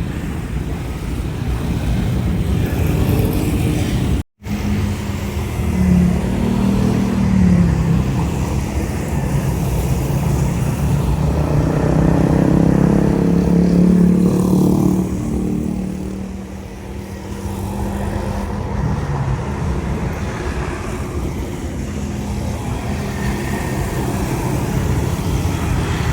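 Jet airliner engines at takeoff power: a loud, steady rumble with a low droning tone that wavers, swells to its loudest partway through, then eases slightly as the aircraft passes. A sound cut with a split-second silence comes about 4 seconds in.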